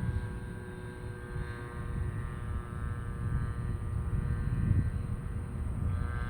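A Kadet LT.55 radio-controlled model airplane's engine drones steadily in flight, holding an even pitch, over a gusty low rumble.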